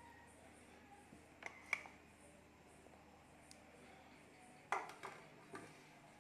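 A kitchen utensil knocking against a dish: two light clinks about a second and a half in, then a louder run of three or four knocks near the end, over faint room tone.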